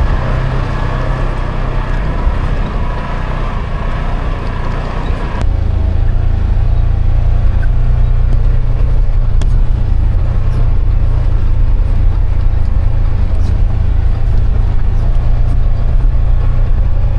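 Side-by-side UTV engine running as it drives down a steep trail, a loud, steady low drone. About five seconds in the sound changes, the low drone growing louder.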